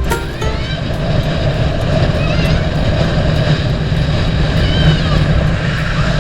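Motorboat running underway: a steady low engine drone with rushing wind and water noise over it.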